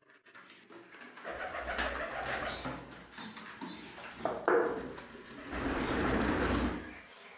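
Domestic pigeons cooing in two long, low, rolling bouts, with a brief sharper, louder sound about halfway through.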